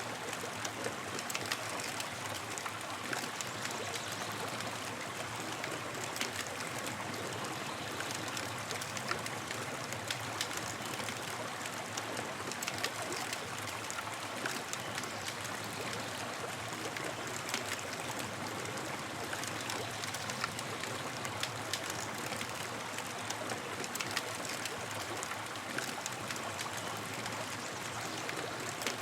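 Campfire burning: a steady hiss with frequent small crackles and pops scattered throughout.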